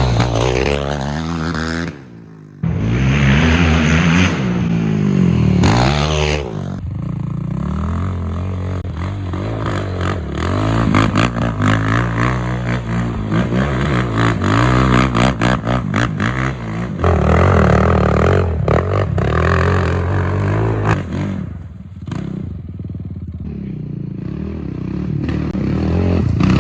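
Yamaha YFZ450R quad's single-cylinder four-stroke engine through a Barker's full aftermarket exhaust, revving up and down repeatedly as it is ridden through the gears. Through the middle stretch a rapid clatter and scraping runs under the engine note.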